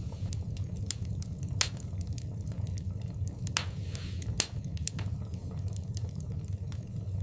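Wood fire burning in a fireplace: a steady low rumble of the flames with frequent sharp crackles and pops. The loudest pops come about one and a half seconds in and again near four and a half seconds.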